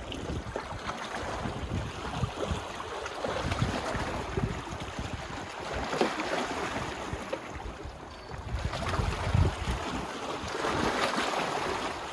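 Small waves washing onto the beach and draining back, swelling and fading every few seconds, with gusts of wind buffeting the microphone.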